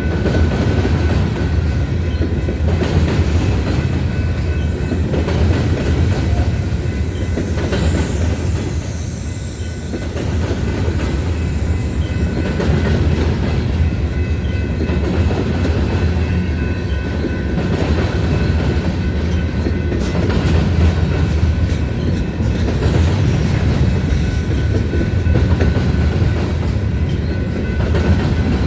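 Freight cars of a grain train rolling past, a steady loud rumble with the wheels clacking over rail joints and a faint wheel squeal.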